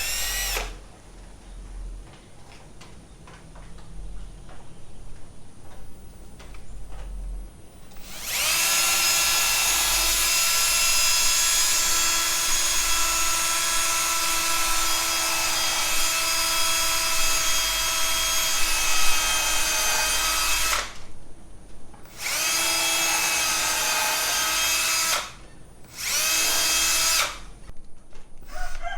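Power drill running, boring pilot holes into wood: a long steady run of about twelve seconds starting about 8 s in, then two shorter runs near the end, with a brief run at the very start.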